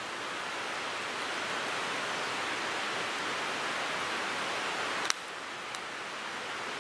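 Wood fire burning in a Picogrill 398 brazier: a steady, dense crackle and hiss, with one sharp pop about five seconds in and a fainter tick just after.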